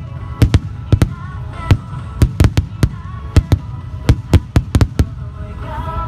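Fireworks display: a rapid, irregular barrage of sharp bangs from shells bursting, several a second.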